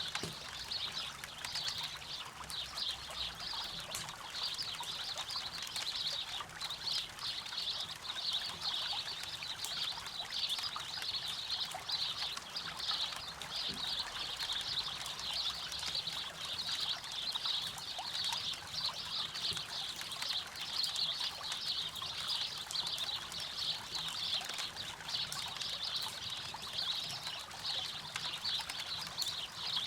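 River water flowing steadily, with a campfire crackling now and then.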